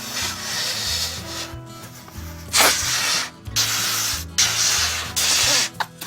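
Breath rushing into a balloon being blown up by mouth, one long blow and then several shorter ones, over background music.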